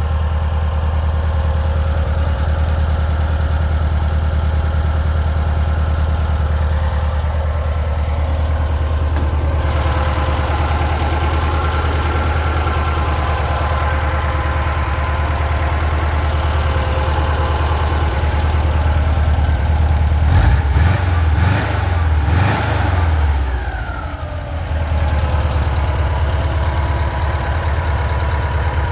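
ZAZ 968M's air-cooled V4 engine idling steadily, running again after nine months of sitting. About two-thirds of the way in it is revved a few times in quick succession, then dips briefly and settles back to idle.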